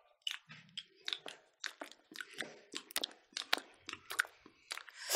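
People chewing food with their mouths close to the microphone: a string of short, separate clicks and smacks, two or three a second.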